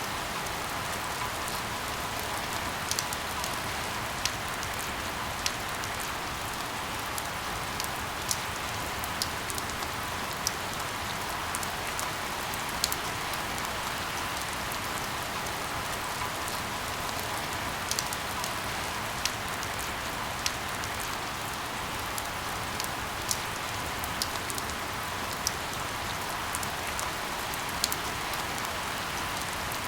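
Steady rainfall: an even hiss of rain with scattered sharp clicks of single drops striking a surface every second or two. A faint steady tone sits underneath.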